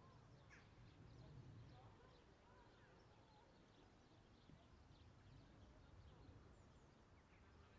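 Quiet outdoor ambience: small birds chirping faintly and often over a low, steady rumble.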